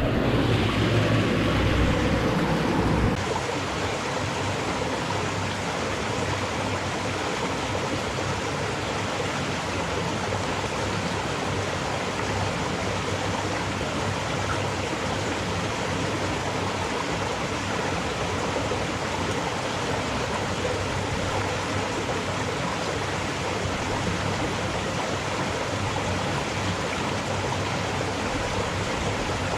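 Steady rush of a fast-flowing stream. For the first three seconds a louder low rumble lies over it, then cuts off abruptly.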